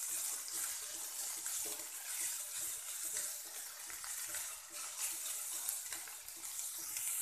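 Sliced onions sautéing in hot mustard oil in a kadhai while being stirred with a spatula: a steady frying hiss with soft scrapes of the spatula against the pan.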